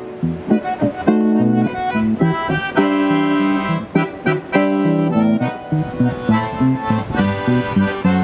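Accordion and guitar duo playing an instrumental tune: the accordion holds sustained chords and melody notes over plucked guitar strumming.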